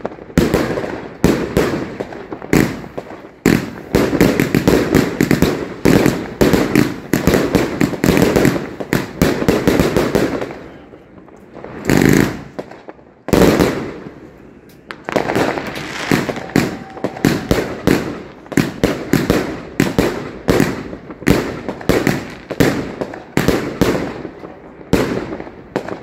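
New Year's fireworks going off in a dense run of bangs and crackles. Around the middle the firing thins out for a few seconds, broken by one loud bang, then builds back to a steady barrage.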